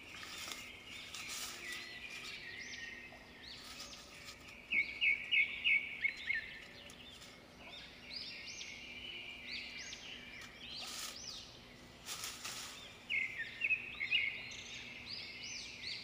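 Small wild birds chirping, clusters of quick high notes, loudest about five seconds in and again near the end. Leaves and branches rustle briefly a few times as they are pulled.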